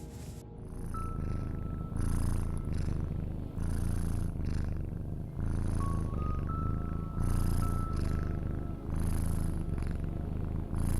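Domestic cat purring close to the microphone in waves of about a second each, with a brief dip at every breath. It swells in about half a second in, over soft background music with a few held high notes.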